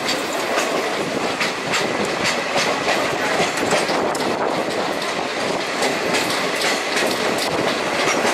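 Passenger train running along the track, heard from on board: a steady rumble with wheels clicking over rail joints about two to three times a second.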